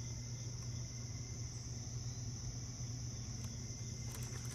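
Steady background noise with no speech: a low hum and a constant high-pitched hiss.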